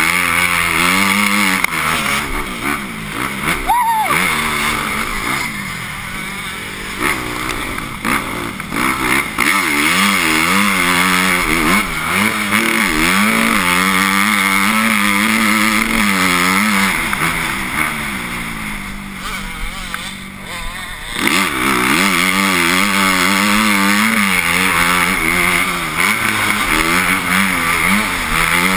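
Motocross bike engine revving hard and dropping back again and again as it is ridden round the track, its pitch climbing and falling through the gears. About two-thirds of the way through the throttle is shut for a moment, then the engine revs up again.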